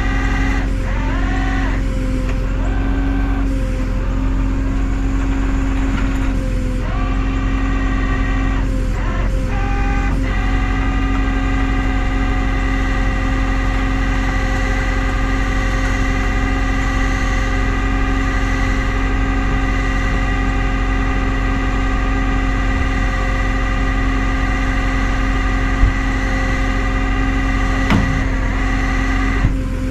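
Tow truck engine running with the PTO engaged for winching: a steady drone under a whine whose pitch shifts several times in the first ten seconds, then holds steady. A couple of short knocks near the end.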